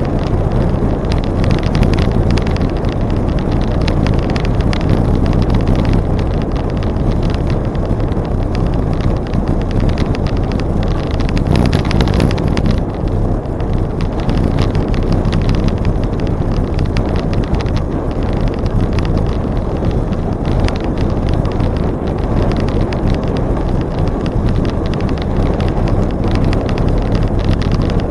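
Wind buffeting the microphone of a camera riding along on a moving bicycle: a loud, steady rumble.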